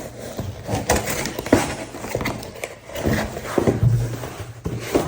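Bat packaging being handled and opened, with irregular sharp clicks and crackling, over background music.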